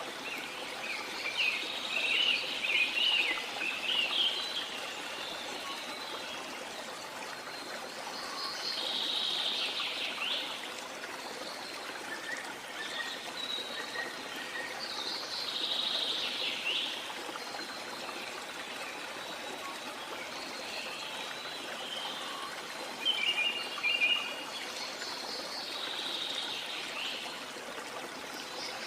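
Small songbirds chirping in short clusters every few seconds over a steady rush of water.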